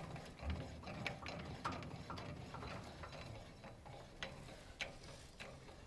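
Light, irregular metallic clicks and knocks from a trailer hitch being worked off a truck's hitch ball, over a low rumble.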